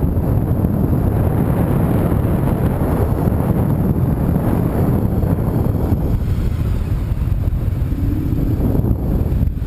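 Car on the move: a steady low rumble of road and engine noise, with wind buffeting the microphone.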